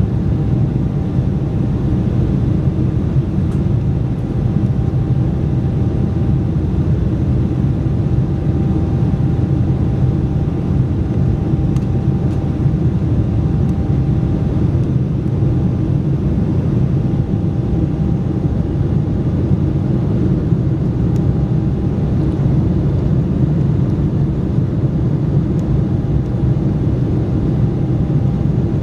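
Cabin noise inside an Embraer 190 jet airliner: a steady rumble of the turbofan engines and airflow, with a faint steady tone over it.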